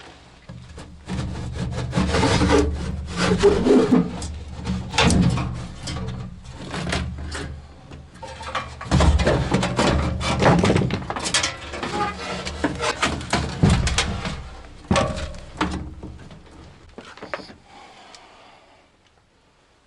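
Irregular rubbing and scraping with scattered knocks from hand work, fading away over the last few seconds.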